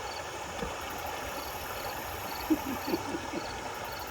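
Steady rush of river current, with a faint high chirp repeating about twice a second and a few short low sounds about two and a half seconds in.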